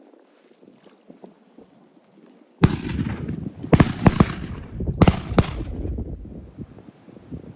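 A rapid volley of about six shotgun blasts, beginning suddenly about two and a half seconds in and spread over three seconds, each followed by a low rumbling echo that dies away near the end.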